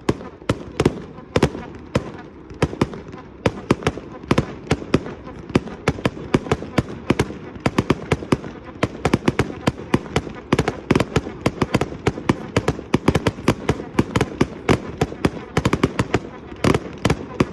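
Fireworks display: a continuous barrage of sharp bangs and crackles, several a second, with a denser cluster near the end.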